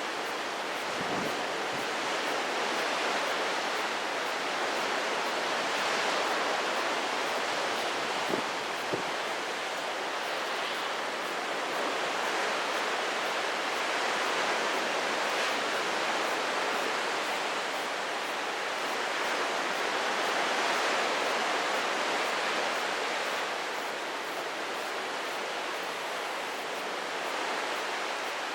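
Steady rushing of strong typhoon wind, swelling and easing slowly, with two brief clicks about eight and nine seconds in.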